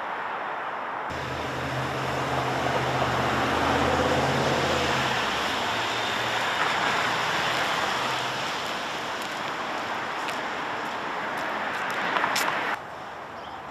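Road traffic: a passing vehicle's engine hum and tyre hiss, swelling to its loudest about four seconds in and then fading, over steady traffic noise that breaks off sharply near the end.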